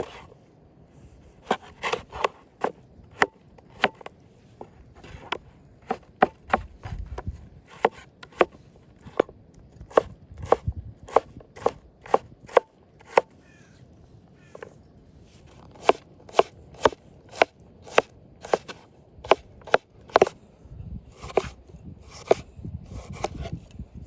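Knife chopping food on a cutting board: a long run of sharp, separate strokes at about one to two a second, pausing briefly now and then.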